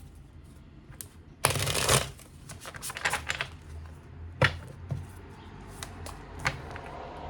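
Tarot cards being shuffled: a dense half-second riffle about a second and a half in, then a few scattered sharp card snaps and taps.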